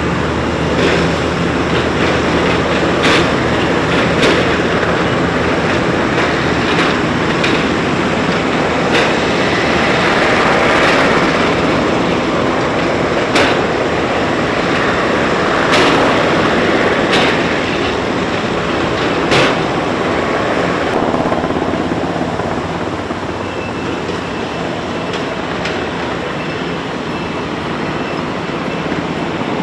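Sikorsky UH-60M Black Hawk helicopter running: a steady rotor and turbine noise over a low hum, with a few sharp clicks. It eases slightly in the last third.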